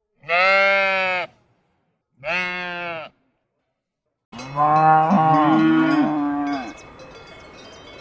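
Livestock calling: two separate drawn-out calls of about a second each, then several animals calling over one another for about two seconds, followed by quieter background noise.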